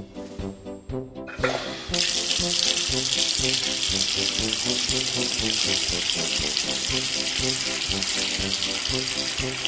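Water running from a tap, switched on about two seconds in and pouring steadily, as toy cars are washed, over background music with a steady beat.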